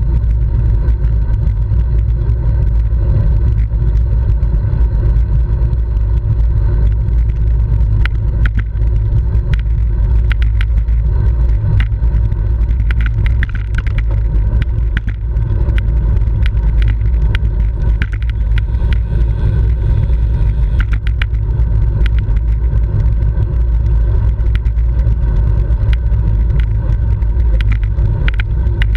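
Wind buffeting the microphone of a camera carried on a bicycle at racing speed: a loud, steady low rumble, with scattered short clicks and rattles through it.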